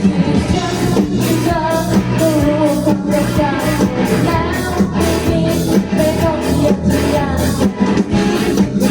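A live student band playing a pop-rock song: a singer over guitar, bass and drums, with a steady beat.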